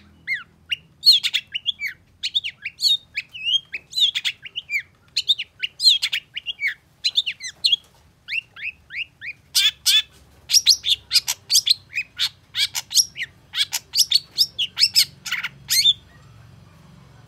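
Long-tailed shrike (cendet) singing a fast, varied song of short sharp chirps and whistled notes. The notes come quicker and denser from about ten seconds in, and the song stops near the end.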